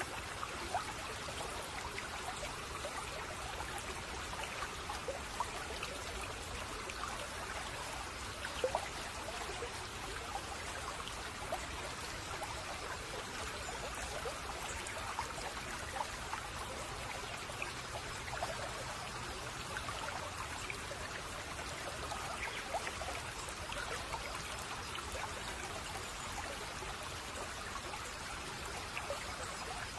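Small stream babbling and trickling steadily over stones, a continuous watery rush dotted with little splashes.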